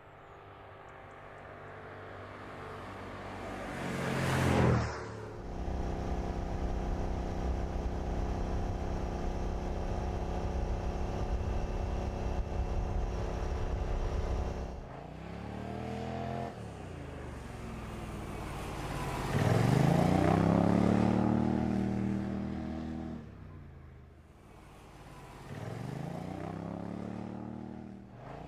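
A car engine: a brief loud swell about four seconds in, a steady stretch of running, then the engine accelerating hard through the gears, its pitch climbing and dropping back at each shift, three times.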